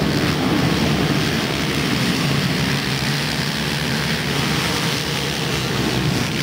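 A pack of motocross bikes racing at full throttle just after the start, many engines running hard together in one steady, dense blend.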